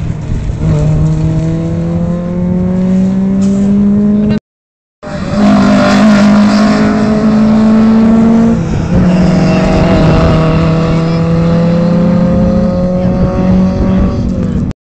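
Rally car engine at full throttle, its pitch climbing steadily through each gear, with gear changes about a second in, around five seconds in and around nine seconds in. The sound cuts out completely for about half a second a little past four seconds in.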